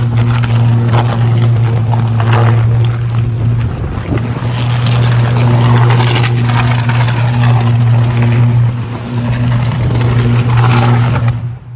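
Malfunctioning power line arcing: a loud, steady low electrical buzz with crackling and hissing over it, cutting off near the end.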